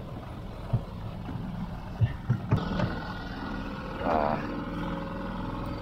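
Small boat's outboard motor running steadily at trolling speed, with a few sharp knocks about two seconds in.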